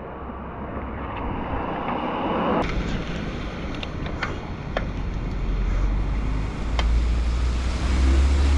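Rain and wind noise rumbling on the microphone during a bicycle ride through heavy rain and standing water. The rumble grows much louder about halfway through, and a few sharp ticks sound over it.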